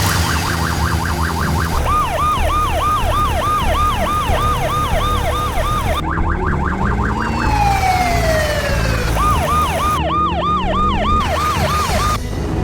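Emergency-vehicle siren in a fast yelp, sweeping up and down about four times a second, broken near the middle by a long falling tone, over a steady low rumble.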